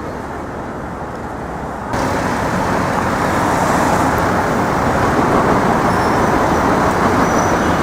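City street traffic noise: a steady rush of passing cars and other vehicles, which turns abruptly louder and brighter about two seconds in.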